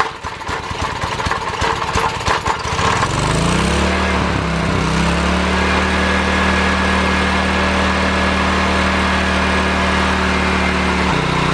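Honda EX1000 generator's small engine starting: about three seconds of rapid uneven firing, then it revs up and settles into a steady run, dropping slightly in pitch near the end. Its governor spring has just been slackened to cure the engine running at far too high a speed.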